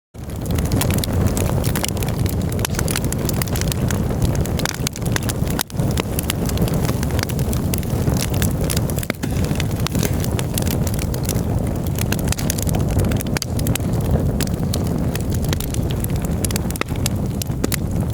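Campfire burning, with dense, irregular crackles and pops over a steady low rumble.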